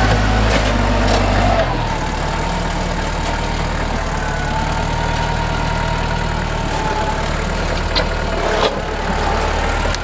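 NorTrac 35XT compact tractor's diesel engine running steadily. About two seconds in it changes note and drops slightly in level. A couple of short knocks come near the end.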